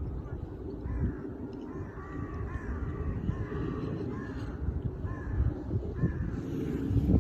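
A bird calling over and over in short, arched calls, roughly one or two a second, over a steady low rumble.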